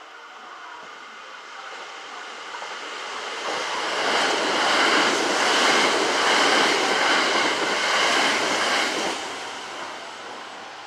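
Kintetsu electric train passing through the station: wheel and rail noise grows, stays loud for about five seconds in the middle, then fades near the end.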